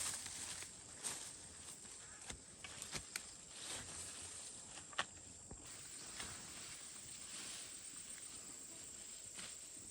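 Quiet outdoor ambience: a steady high hiss with scattered light clicks and taps, the sharpest about five seconds in.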